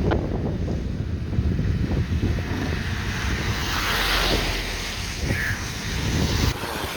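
Wind buffeting the microphone over outdoor road and vehicle noise, with a swell of hiss about four seconds in. The low rumble drops off sharply about six and a half seconds in.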